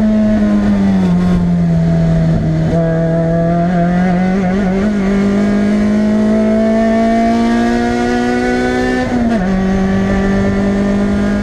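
Toyota MR2 Spyder's 1.8-litre four-cylinder engine heard from inside the cabin at track speed: the revs dip about a second in, climb steadily for several seconds, then drop suddenly near the end at an upshift.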